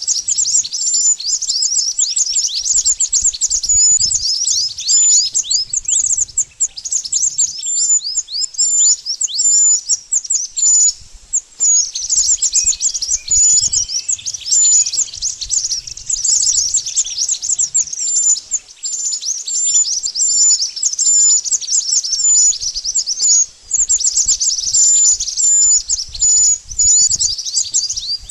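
Burung mantenan songbirds calling: a dense, non-stop run of rapid high-pitched chirps, each sweeping downward, mixed with short repeated high notes.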